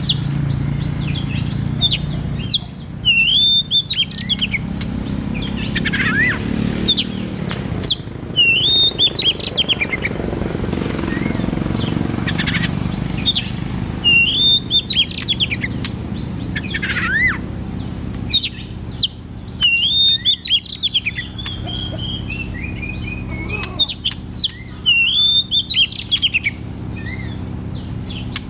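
Oriental magpie-robin singing in full voice: a varied run of loud whistled phrases, quick pitch sweeps and rapid chattering notes, with short breaks between phrases, over a steady low hum.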